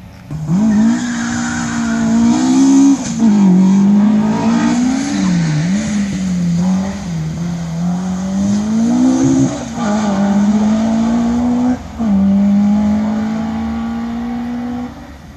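Sprint car's engine at full throttle, its note repeatedly climbing and then dropping back as it changes gear, held steady for the last few seconds before it cuts off.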